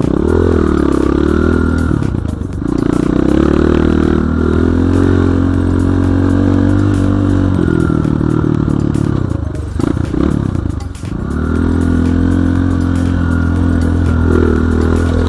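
Enduro dirt bike engine running hard under throttle, revs rising and falling as it rides, with two brief drops in revs, one a couple of seconds in and another around ten seconds in.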